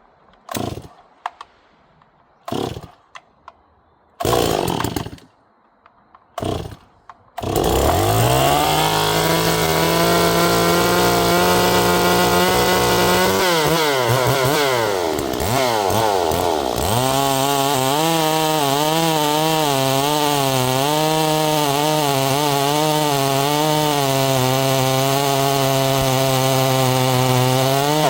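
Stihl MS 260 clone two-stroke chainsaw (50 cc) being pull-started: several short pulls, catching about seven seconds in. It then runs at high revs, its pitch dropping and climbing a few seconds later and wavering after that as the chain works under load, cutting oak logs.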